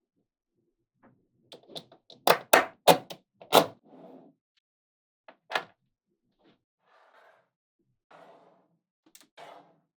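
Small magnetic balls clicking together as they are snapped into place. A quick run of four sharp clacks comes about two to three and a half seconds in, and one more about halfway through, with soft handling rustles between them.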